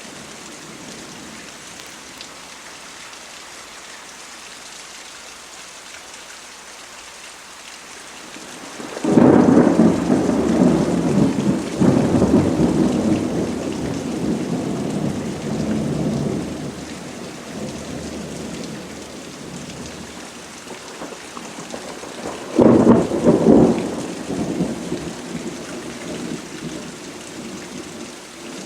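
Thunderstorm: steady rain falling, with two claps of thunder. The first breaks suddenly about nine seconds in and rumbles away over several seconds, and a second, shorter crack comes about two-thirds of the way through.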